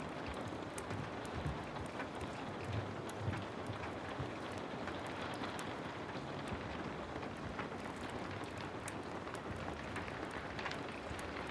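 Heavy rain falling steadily, dense and even, with many scattered sharp crackles and a few low thumps about two to three seconds in.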